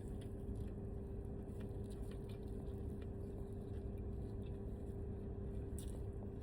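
Faint chewing and mouth clicks from eating charcoal-grilled chicken, over a steady low hum with a constant tone.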